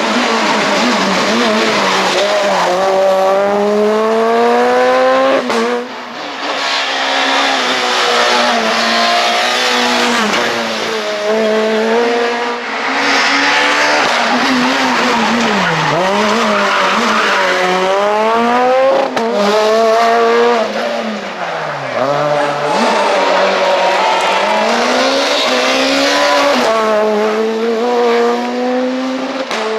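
Super 2000 rally car's naturally aspirated 2.0-litre four-cylinder engine driven hard, its pitch climbing through each gear with quick shifts and dropping away on braking, over and over.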